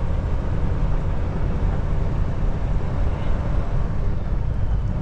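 Kenworth T680 semi truck driving, heard from inside the cab: a steady low drone of engine and road noise.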